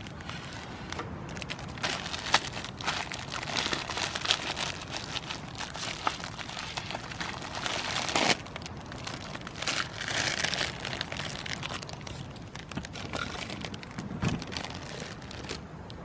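Irregular crinkling and crackling with many scattered sharp clicks.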